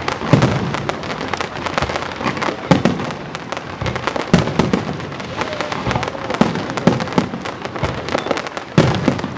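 Aerial fireworks bursting in quick succession: deep booms every second or so, with dense crackling and popping between them.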